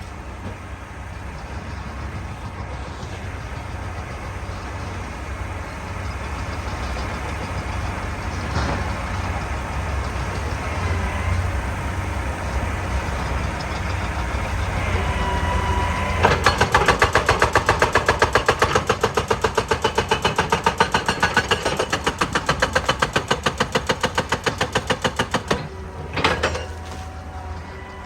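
Excavator diesel engine running steadily, then about halfway through a hydraulic rock breaker starts hammering with rapid, even blows that go on to near the end, with a brief break shortly before it stops.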